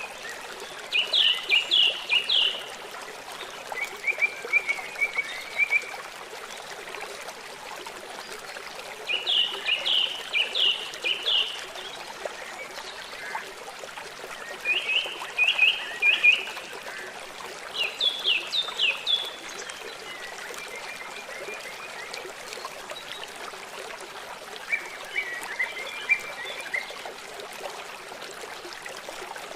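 A small bird singing repeated short phrases of rapid chirped notes, a phrase every few seconds, over the steady rush of a stream.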